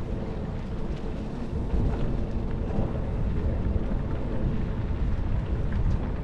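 Bicycle tyres rolling over a gravel path: a steady low rumble and crunch, with wind rumbling on the helmet-mounted microphone.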